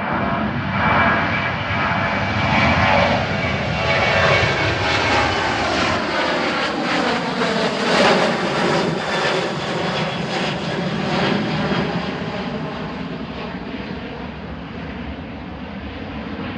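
Boeing 737's twin jet engines at high thrust as the airliner departs and passes close by. The engine whine and roar build up, peak about halfway through while the tones sweep down in pitch, then fade away.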